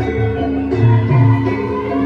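Javanese gamelan ensemble playing a steady, rhythmic piece: ringing bronze metallophone and gong notes over a repeating low pulse, with drums.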